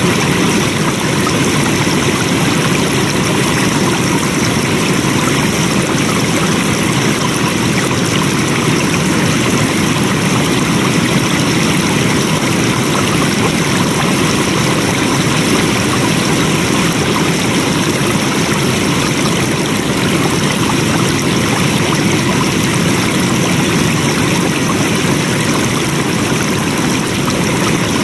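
Flowing water rushing steadily, like a stream, at an unchanging level.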